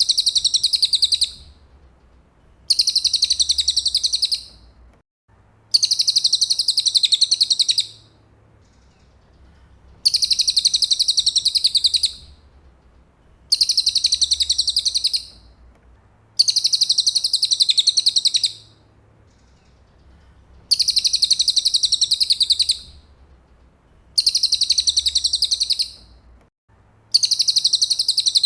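Cililin songbird singing a fast, dense high trill in phrases about two seconds long, nine times, repeated every three to four seconds.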